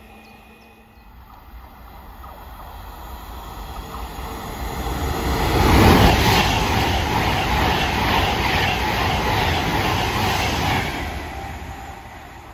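Class 390 Pendolino electric train passing through at speed. A rushing noise of wheels and air builds as it approaches and is loudest about six seconds in, as the front goes by. It stays loud while the carriages pass, then fades near the end as the train draws away.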